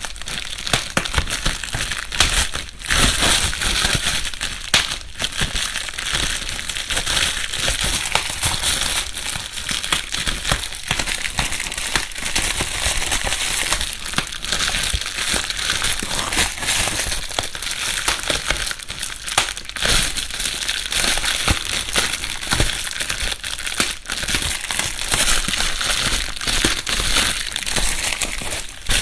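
Plastic bubble wrap being handled without pause, rustling and crinkling with many small crackling pops.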